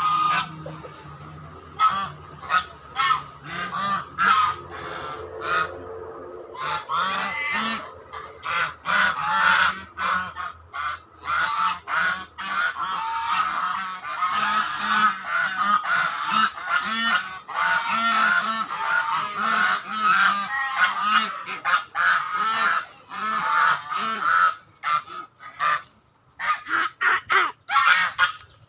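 A group of swans honking over and over, many calls overlapping, busiest through the middle and thinning out near the end.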